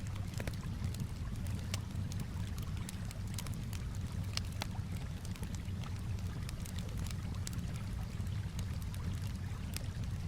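Campfire crackling with frequent, irregular sharp pops over a steady low wash of calm water.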